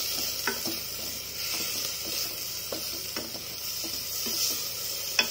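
Chopped onion and tomato sizzling in hot oil in a steel pressure cooker while a spatula stirs them, with a steady hiss and irregular scrapes and knocks of the spatula against the pot; one sharper knock near the end.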